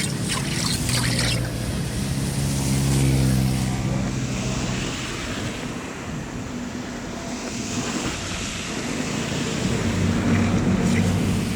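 An engine running, its pitch and loudness swelling and easing several times, with a rushing noise like wind on the microphone or moving water over it.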